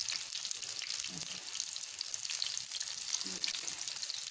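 Batter-coated potato balls shallow-frying in hot ghee on a flat tawa: a steady crackling sizzle.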